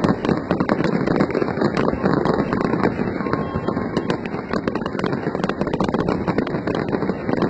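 Fireworks display going off: many bangs and crackles in quick succession, almost continuous over a dense rumble.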